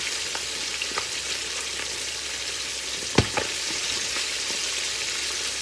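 Flour-dredged chicken wings frying in hot canola and vegetable oil in a cast iron skillet: a steady sizzle with small pops and crackles. About three seconds in there is a single sharp knock, with a fainter one just after.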